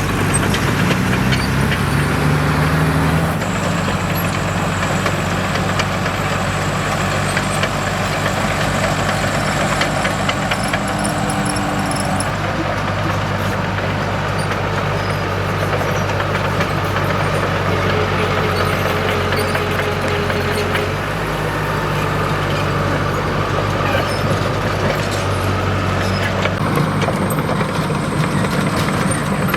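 Diesel engine of a Komatsu D37EX crawler bulldozer running under load, its note rising in the first few seconds and then holding steady, with scattered clanks and clicks over it.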